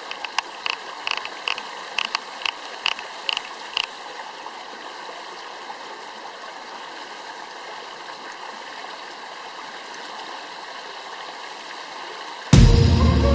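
Stream running with an even rushing hiss, with a run of short sharp clicks over the first few seconds; music comes in loudly about a second before the end.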